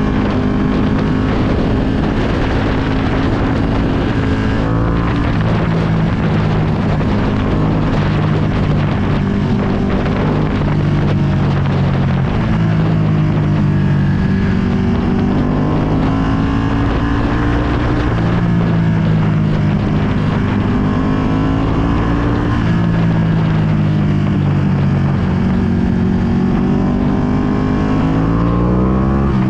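2020 Ducati Panigale V2's 955 cc twin-cylinder engine through a full Akrapovic exhaust, heard while riding, its pitch rising and falling again and again as the bike accelerates, shifts and eases off, with a steep rise near the end. Wind noise on the microphone runs underneath.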